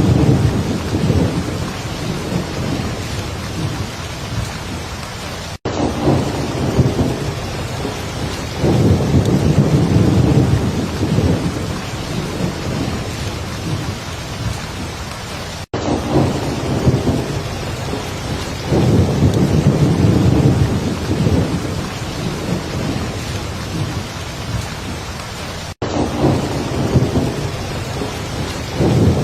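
Heavy rain pouring steadily, with deep thunder rumbles that swell and fade about every ten seconds. The sound cuts out for an instant three times, at the joins of a repeating loop.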